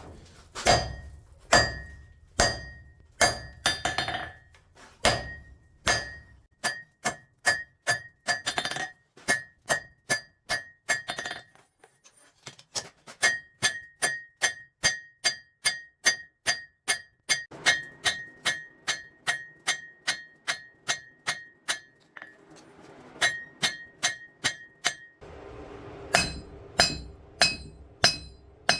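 Hand hammer striking steel on an anvil, about three ringing blows a second, with two short pauses. A low hum runs under the blows near the end.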